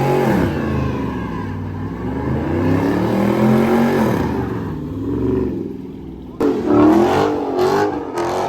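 Car engine revving up and down repeatedly, the pitch climbing and falling several times, with a sudden louder burst of revving about six and a half seconds in.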